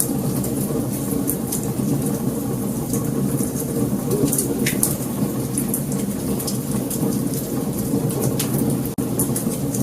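Wood fire burning: irregular sharp crackles and pops over a steady low rumble, with a brief dip in level about nine seconds in.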